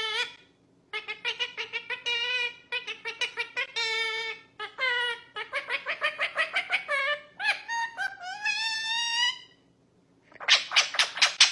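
Pet bird chirping in fast runs of repeated pitched notes, some sliding upward, with two brief pauses and a sharper run of rapid chirps near the end.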